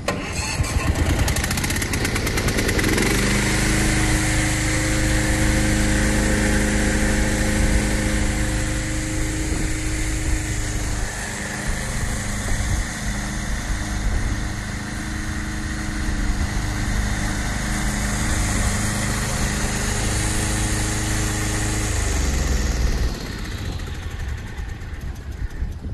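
Engine of a tracked remote-control slope mower running steadily. It comes up to speed about half a second in, then settles back to a lower, quieter running about three seconds before the end.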